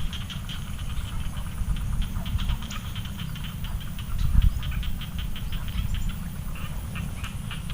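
A steady low rumble with many quick, irregular clicks or chirps over it and a faint steady high hiss.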